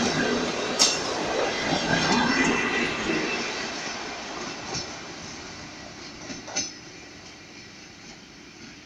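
Passenger coaches rolling past on the rails, wheels clattering with sharp clicks over the track. About three seconds in the sound starts to fade steadily as the end of the train draws away.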